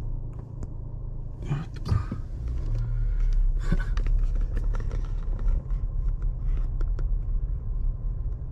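Low, steady rumble of a car's engine and road noise heard inside the cabin as the car creeps along in slow traffic, with a few brief clicks or knocks.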